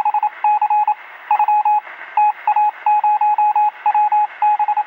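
Rapid electronic beeps in uneven groups of short and longer pulses, like Morse code, sounding thin as if over a radio.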